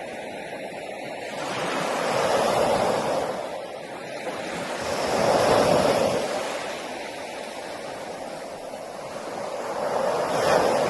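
Ocean surf breaking on a beach: three waves swell up and wash back in turn.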